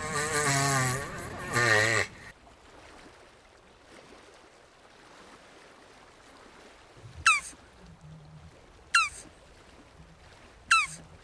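A jabuti tortoise gives a loud, wavering, bleat-like call for about two seconds. After a pause, three short, sharp chirps fall steeply in pitch, about one every second and a half to two seconds.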